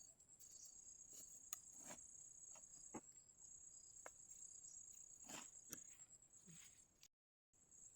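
Faint, steady high-pitched insect chirring, with scattered soft clicks and knocks. The sound cuts out completely for a moment near the end.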